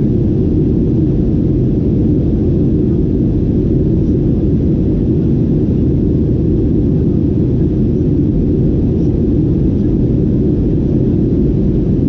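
Steady low drone of a Boeing 737-800 heard from inside the cabin, the sound of its CFM56 jet engines and the airflow. It stays loud and even throughout.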